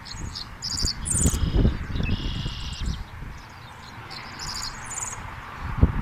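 Songbirds singing: clusters of short high chirps and a buzzy trill about two seconds in. Under them runs a low, gusting rumble of wind on the microphone.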